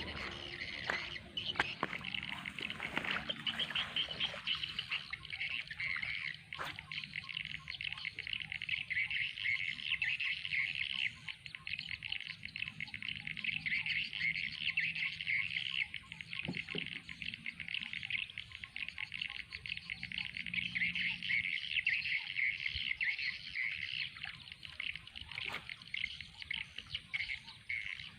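A steady, dense chorus of rapid high chirping from wild animals, with a faint low hum underneath that stops about three quarters of the way in and a couple of sharp clicks.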